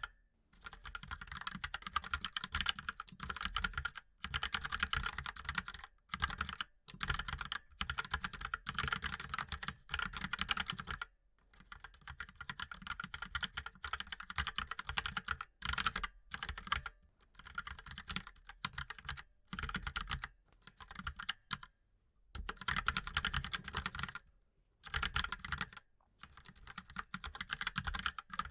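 Fast typing on a mechanical keyboard, dense runs of key clicks in bursts of a second or two broken by short pauses.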